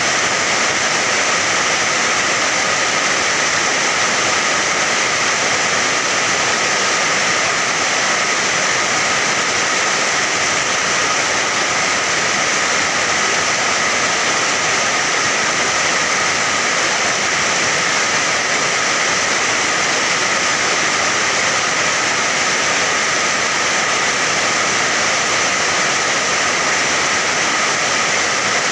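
Steady, dense rain: an even hiss of water with no single drops or gusts standing out and no change in strength.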